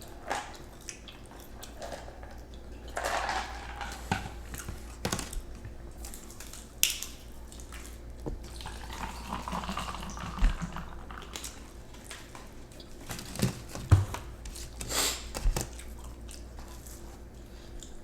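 Scattered clicks, taps and small knocks as spicy chicken nuggets are handled and eaten, over a steady low hum.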